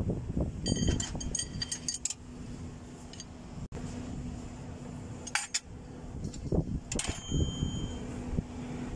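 Steel push rods clinking and ringing as they are handled and set into the cylinder head of a Mercedes-Benz Actros engine: a quick run of metallic clinks in the first two seconds, then single clinks around the middle and about seven seconds in, over a steady low hum.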